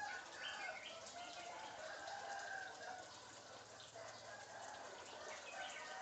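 Bird calls: a continuing series of drawn-out pitched calls, several overlapping.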